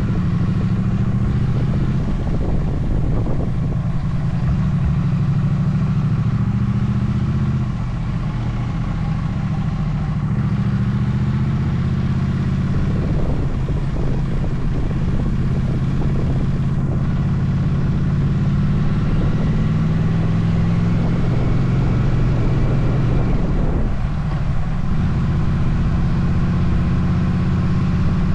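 Motorcycle engine running steadily on the move, its pitch shifting a little with the throttle and briefly easing off twice, about eight seconds in and again near the end.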